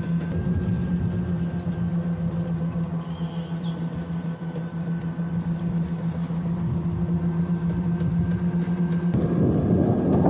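A vehicle's motor running with a steady low hum; about nine seconds in, a rougher rumble joins and it gets louder.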